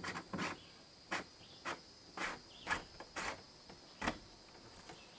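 A string of short, irregular scrapes and knocks, about eight in four seconds, like parts being handled, with insects trilling steadily behind.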